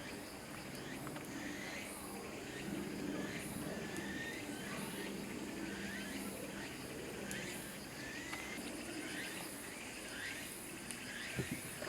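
Forest ambience: insects shrilling steadily, with short rising chirps repeating about once a second, and a soft knock near the end.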